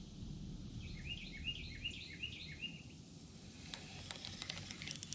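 A songbird singing a quick series of repeated, downward-sliding notes for about two seconds, over a low steady background rumble. Near the end come faint scattered clicks and rustling.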